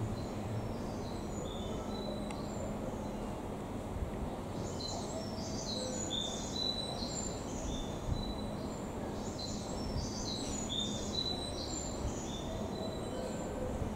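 Small birds chirping in short, high notes, in thick clusters about five seconds in and again about ten seconds in, over a steady low rumble of background noise.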